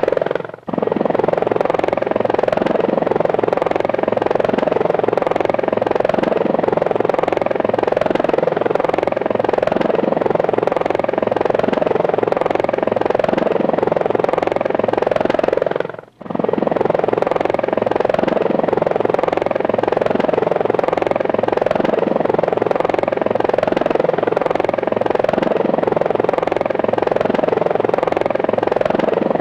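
Helicopter rotor sound, a steady chopping hum with rapid even pulsing. It cuts out for a moment about half a second in and again about sixteen seconds in.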